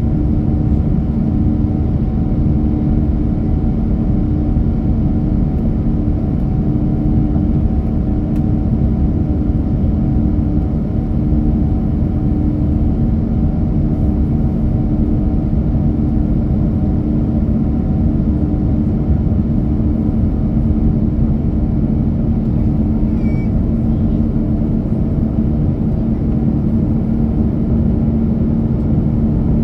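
Steady drone of a jet airliner's cabin in flight: engine and airflow noise with a constant low hum.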